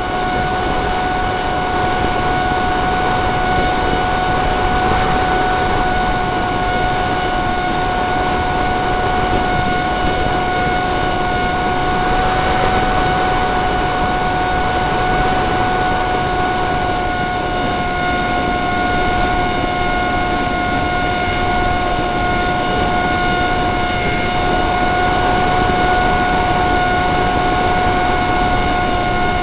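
Electric motor and propeller of a Dynam Hawksky RC plane whining at a steady pitch, with heavy wind buffeting over the microphone.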